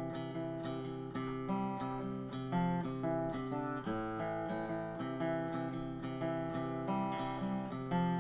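Acoustic guitar strumming chords in a steady rhythm: the instrumental intro of a song, before the singing comes in.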